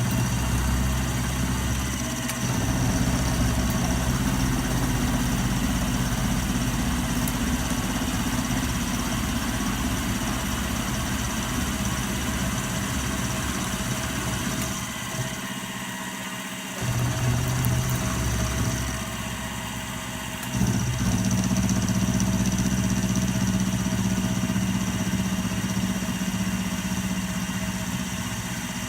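Milling machine running, a steady machine hum that shifts in pitch and strength a few times. It dips sharply for about two seconds around the middle, then picks up again.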